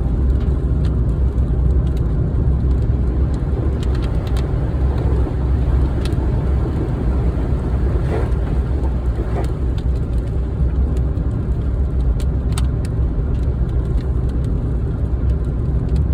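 Car driving: a steady low road and engine drone, with a few faint ticks over it.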